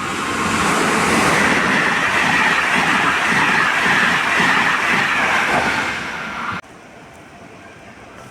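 A train passing through the halt at speed without stopping, its wheels clattering over the rail joints. The sound builds over the first second, holds loud, then cuts off suddenly about six and a half seconds in.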